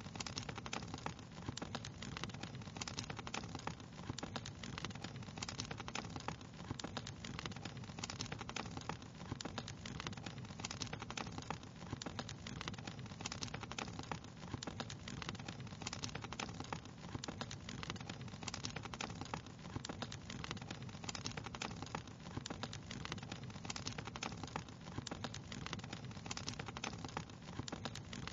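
Fire crackling: a dense, even stream of small pops and snaps over a steady low rumble.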